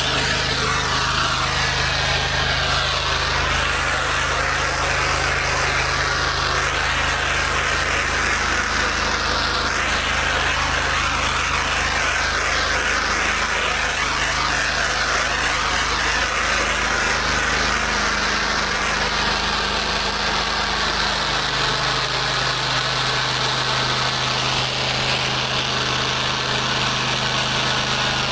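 Gas-engine pressure washer running steadily under the constant hiss of high-pressure water spray.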